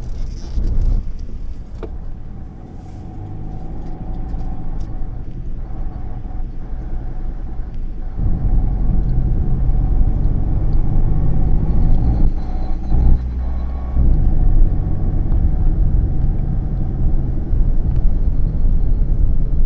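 Strong gusting wind buffeting the microphone, a loud low rumble that swells and eases and grows stronger about eight seconds in.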